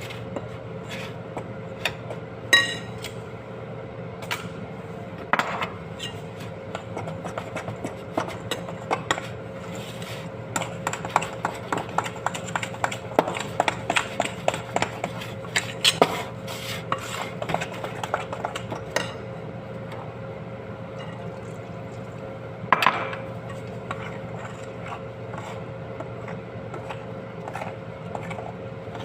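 A spoon or whisk clinking and scraping against a bowl while flour, eggs and water are mixed into a batter, in quick irregular taps that are densest in the middle, with a couple of louder knocks. A steady hum runs underneath.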